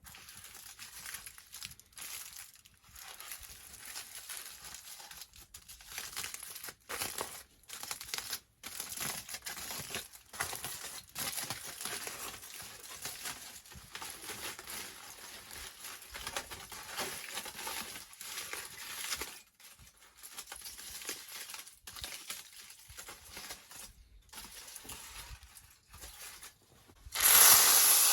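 Irregular crinkling and rustling with short gaps. About a second before the end, a loud, steady sizzle starts suddenly as food goes into a hot skillet.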